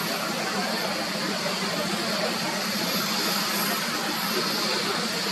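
Jet airliner engine noise, a steady even rush with no change in level.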